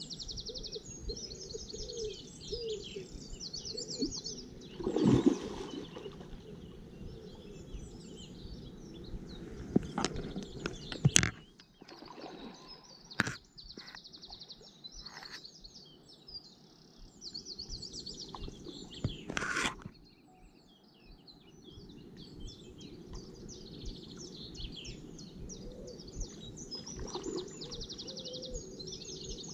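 Wild birds singing all around, many short chirps and fast trills, with a few brief louder bumps and rustles of handling, the loudest about five and eleven seconds in.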